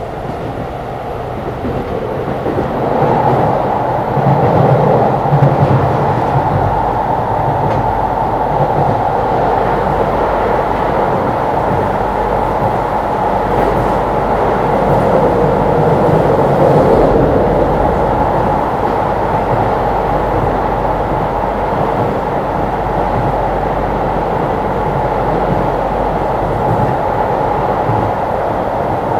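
Keisei 3500-series electric train running between stations, heard inside motor car MoHa 3514: a steady rumble of wheels on rail and traction gear, growing louder a few seconds in and then holding even.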